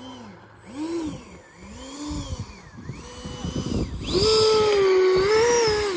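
Electric RC model airplane motor whining, its pitch rising and falling several times as the throttle and speed change. About four seconds in it becomes a loud, steady high whine, then cuts off.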